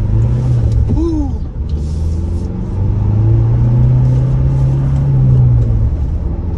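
2022 Ford Bronco Badlands' 2.3-litre turbocharged four-cylinder engine heard from inside the cabin while driving, a steady low drone that grows louder and slightly higher from about two and a half seconds in and eases again near the end.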